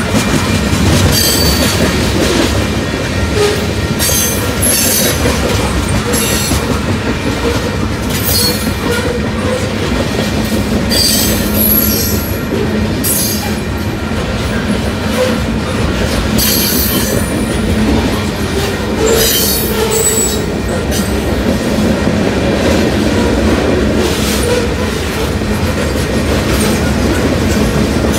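Union Pacific freight train passing at speed: a steady rumble and clatter of the freight cars' wheels on the rails, broken every second or two by short high-pitched wheel squeals.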